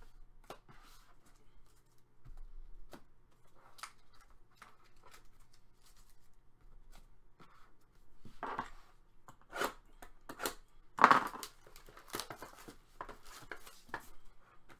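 Trading cards and foil pack wrappers being handled: scattered short rustles, tears and crinkles with small taps, the loudest rustle about eleven seconds in.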